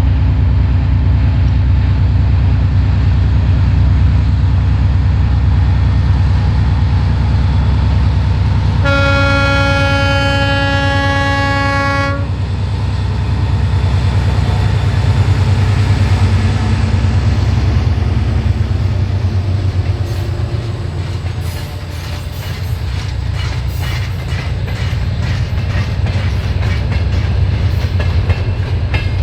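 3TE10M diesel locomotive's two-stroke opposed-piston 10D100 engines drone heavily as it passes, and it sounds its horn in one steady blast of about three seconds around nine seconds in. In the second half the freight wagons roll by with a rapid clickety-clack of wheels over rail joints.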